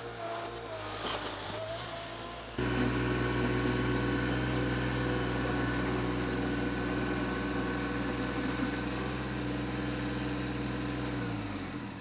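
A motor vehicle engine running steadily. It gets suddenly louder a couple of seconds in, then its pitch drops as it slows down near the end.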